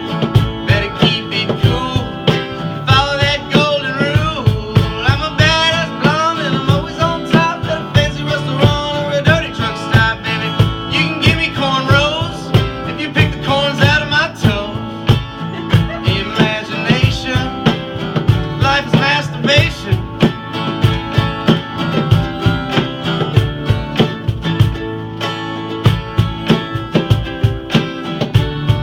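Live band music in a country style: guitar over a steady drum beat, with a wavering lead melody for roughly the first two-thirds.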